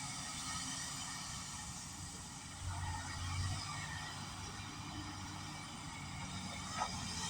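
Kobelco 380 excavator's diesel engine running steadily, its low drone swelling louder for about a second and a half near the middle, with a short knock near the end.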